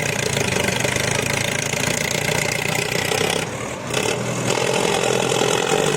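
Tractor engine running steadily, with a short dip in level about three and a half seconds in.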